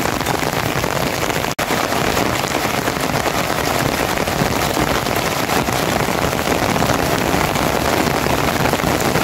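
Rain falling steadily, an even hiss with no let-up, cut off for an instant about one and a half seconds in.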